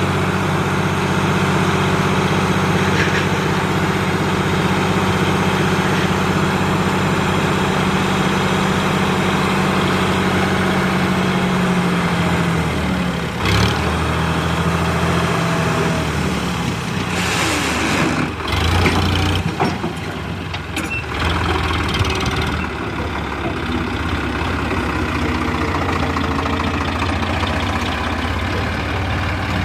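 Heavy vehicle's diesel engine running steadily, its note shifting about twelve seconds in, with a few short hissing bursts around eighteen to twenty-one seconds.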